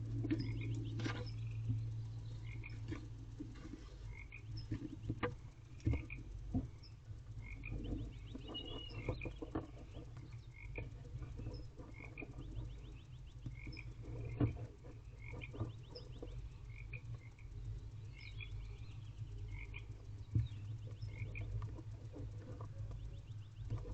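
Frogs croaking over and over, short calls about once a second with occasional quick trills, over a steady low hum. Scattered light knocks and scrapes from the barn owl shifting in the nest box.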